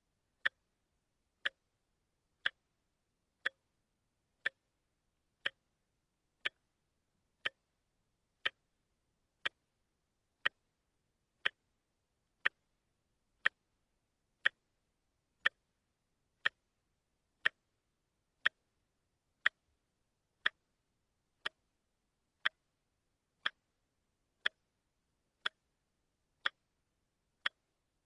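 Wristwatch ticking steadily, one sharp tick each second with silence between, the beat of a quartz movement.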